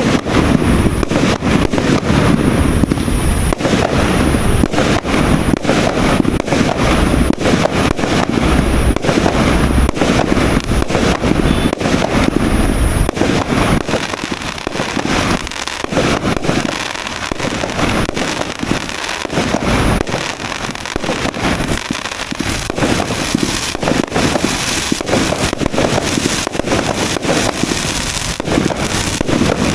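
A 200-shot, 1-inch fireworks cake firing shot after shot in a rapid, continuous barrage of launches and bursts. The barrage thins and drops a little about halfway through, then picks up again near the end.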